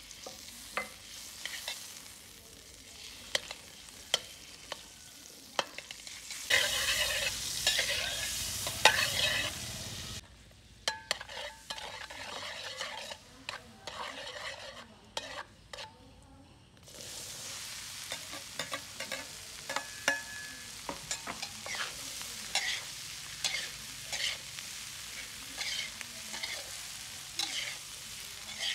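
Butter sizzling in a metal wok while a metal spatula stirs and scrapes it, with repeated sharp clicks of the spatula on the pan. In the later part, corn kernels fry in the butter and are tossed with the spatula.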